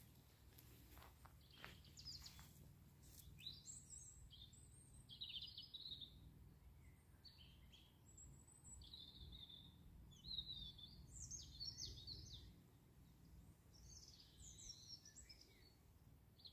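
Faint songbird song outdoors: short, varied high chirping phrases repeated one after another, over a faint low background rumble. A few soft clicks come in the first two seconds.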